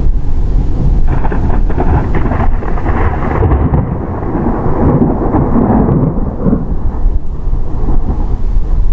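Loud rolling thunder: a long rumble that crackles through the first few seconds, then deepens into a heavy low roll around the middle before easing slightly.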